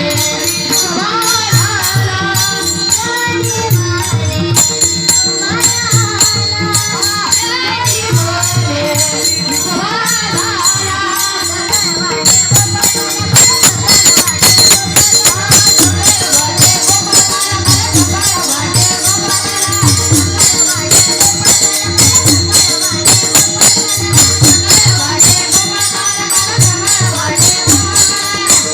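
Marathi devotional gaulan song: a voice singing a wavering melody over a drum and jingling hand percussion keeping a fast, steady rhythm. The percussion grows louder about halfway through.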